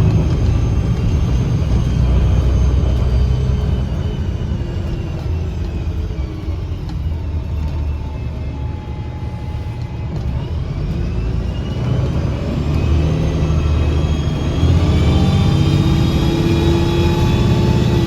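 Drivetrain of a 2009 Gillig BRT 40' bus, its engine and Voith transmission, heard from inside the bus. Whining tones fall as the bus slows about halfway through, then climb again as it pulls away and accelerates. A sharp whistling sound from the engine bay rises with speed.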